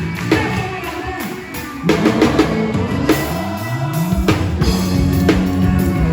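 A band playing, led by a drum kit with bass drum and snare, over a bass line that slides up in pitch around the middle.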